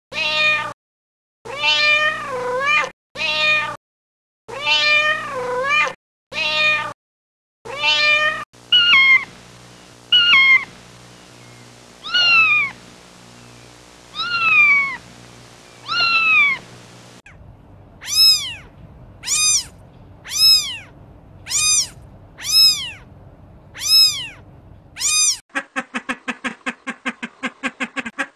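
Cats and kittens meowing in a string of separate clips, one meow after another with abrupt cuts between them; later a run of evenly spaced meows about one a second. Near the end a fast pulsing call takes over.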